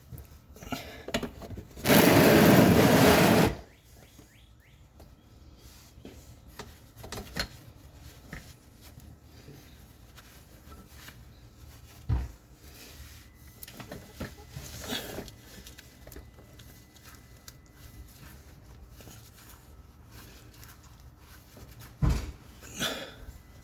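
Hands fitting a new oil filter under a car: faint scattered clicks and knocks, with a few sharper knocks late on. One loud rush of noise about two seconds in lasts a second and a half.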